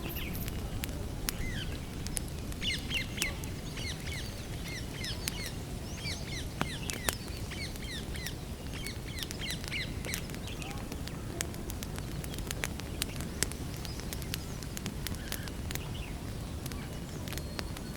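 Wood campfire crackling, with sharp snaps and pops scattered irregularly over a low steady rumble. A small bird chirps repeatedly in quick short calls for roughly the first ten seconds.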